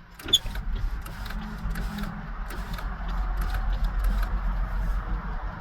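Tow truck driving, heard from inside the cab: a steady low engine and road rumble with scattered light clicks and rattles.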